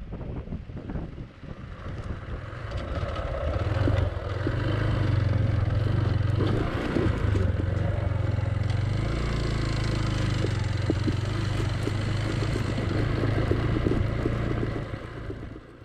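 Yamaha YBR motorcycle's single-cylinder engine running under way, with wind and road noise and scattered small rattles. The engine grows louder about three seconds in, holds a steady drone, then falls away near the end.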